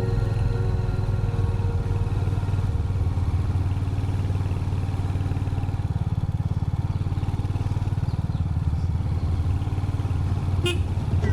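Royal Enfield Hunter 350's single-cylinder engine running at a steady pace while riding, a low, even thumping exhaust note. A brief higher-pitched sound comes near the end.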